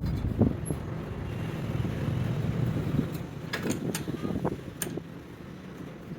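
Low steady rumble with a handful of short, light knocks and clicks: one about half a second in, and a cluster between about three and a half and five seconds in.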